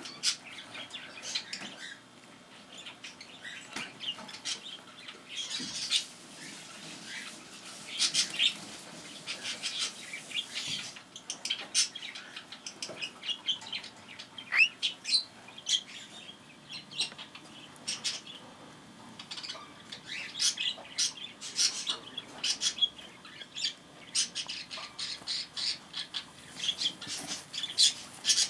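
A young cockatiel beating its wings in flapping practice, in repeated bursts of wing noise, mixed with frequent short chirps and squawks.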